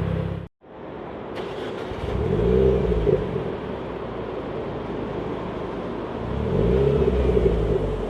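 Renaultsport Clio 200 EDC's 1.6-litre turbo four-cylinder sounding through a Supersprint aftermarket exhaust. It runs with a deep rumble, cuts out briefly about half a second in, then revs rise twice, once around two and a half seconds in and again near the end.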